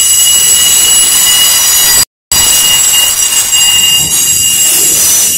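Freight train of autorack cars rolling past, its steel wheels squealing in several steady high-pitched tones over the noise of the passing cars. The sound drops out completely for a moment about two seconds in.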